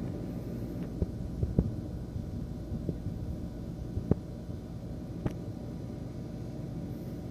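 Computer CPU fan running with a steady low hum, a fan that has grown loud and vibrates. A handful of sharp clicks sound over it, about 1 s, 1.5 s, 4 s and 5 s in.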